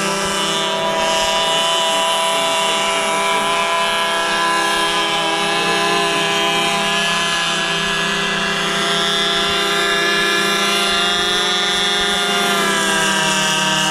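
In-line model engine of an RC airboat running steadily with its air propeller, a constant buzzing drone; near the end the pitch drops briefly as the throttle eases, then climbs again.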